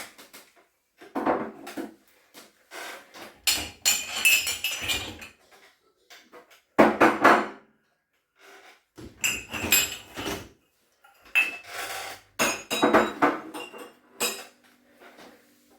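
Dishes and utensils being lifted out of a dishwasher rack and set down: a run of separate clinks, knocks and clatters with short pauses between them.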